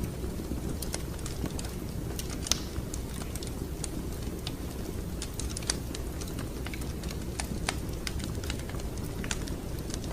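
Wood fire crackling in a fireplace: irregular sharp pops and snaps over a steady low rumble, with a louder pop about two and a half seconds in.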